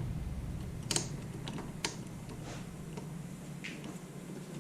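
A few faint, scattered clicks and light taps, a second or so apart.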